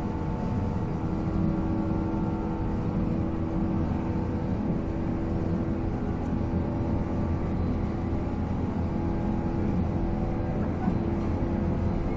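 Running sound inside a 485-series electric train: the MT54 traction motors and gearing hum at a steady pitch over the rumble of wheels on rail, the train cruising at an even speed.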